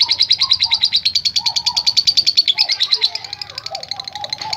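Lovebird singing a long, fast trilled chatter (the 'ngekek'), a rapid even string of high chirps. It softens about three seconds in, with lower warbling notes underneath. A long unbroken ngekek like this is the song of a lovebird in full singing form.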